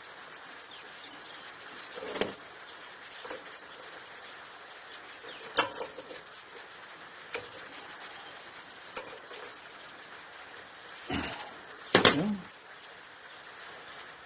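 Sporadic metal clinks and knocks of tools and engine parts being handled, about seven in all, the loudest pair near the end.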